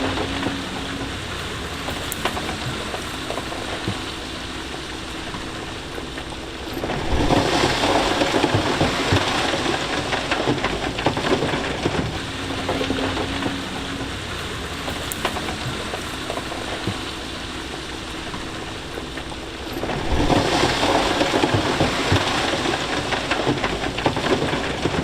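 Diesel engine of heavy machinery running, with two long stretches of loud crunching and clattering from loose stone and gravel on the move: one starts about seven seconds in, the other about twenty seconds in.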